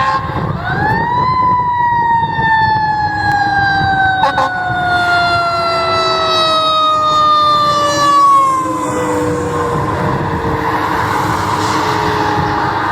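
Fire engine's siren winding up about half a second in, then slowly falling in pitch over the next several seconds, over the rumble of the moving truck. A brief sharp blip comes about four seconds in.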